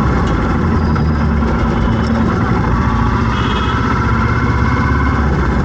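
Road traffic with vehicle engines running steadily, an even low hum with no sudden events.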